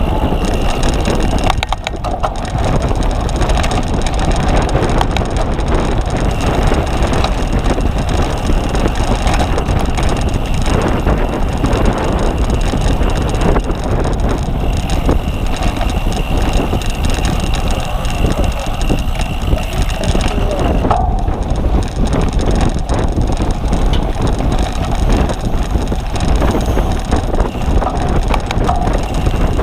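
Cyclocross bicycle ridden hard over rough ground: a steady rush of wind on the microphone, with the bike's chain and frame rattling and clicking over the bumps.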